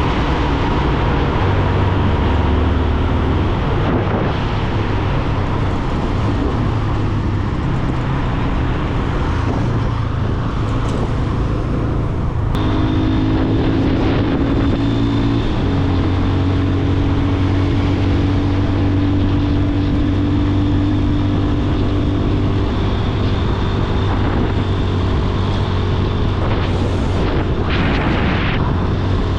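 Yamaha FZ25 motorcycle's single-cylinder engine running under way, a steady engine note whose pitch shifts a few times as it changes pace, over road and air noise.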